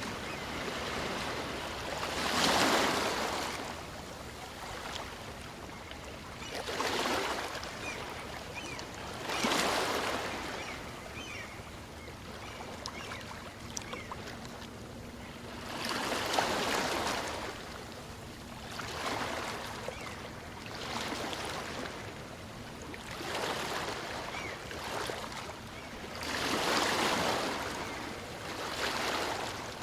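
Small waves on a calm sea breaking and washing up on a beach, a surge of surf every few seconds that swells and fades.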